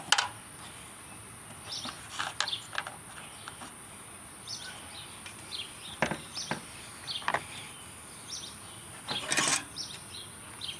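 Scattered clicks and knocks of fishing gear being handled, with short bird chirps and a steady high-pitched drone in the background.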